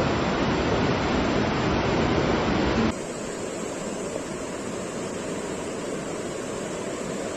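Rushing floodwater, a dense, steady noise. About three seconds in it cuts abruptly to a quieter rush, as one clip gives way to another.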